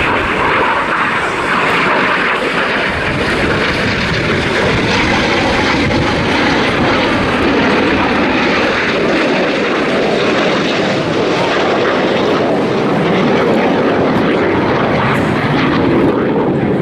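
BAE Hawk T1 jets flying a display, a loud, steady jet roar that holds without a break.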